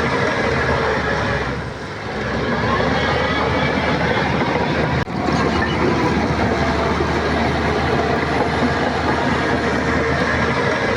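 Shantui crawler bulldozer at work: the diesel engine runs steadily under the clatter of its steel tracks. There is a brief sharp drop in the sound about five seconds in.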